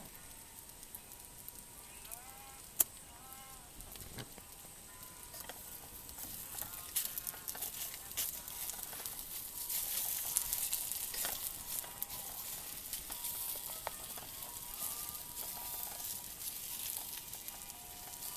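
Wood fire crackling and hissing, growing louder about six seconds in, with one sharp snap near three seconds in.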